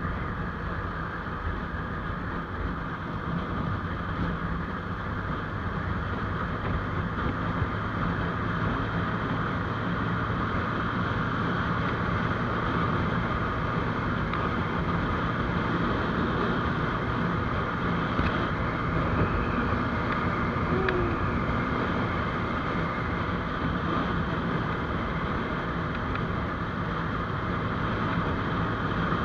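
GPX Demon GR200R motorcycle running at a steady cruising speed, a constant engine hum mixed with wind and road noise while riding.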